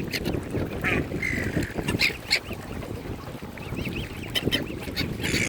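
Waterfowl calling: a scatter of short, repeated calls over a steady low rumble.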